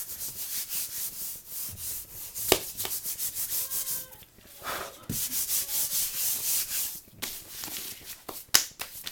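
A sheet of paper being folded by hand, with runs of quick rubbing strokes as the creases are pressed flat, and two sharp crackles of the paper, a couple of seconds in and near the end.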